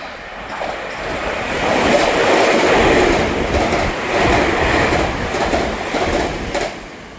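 TEMU2000 Puyuma tilting express train passing through a station at speed, its wheels clattering over the rail joints' fishplates. The sound builds over the first two seconds, stays loud with a pulsing clatter, then falls away abruptly near the end as the train clears.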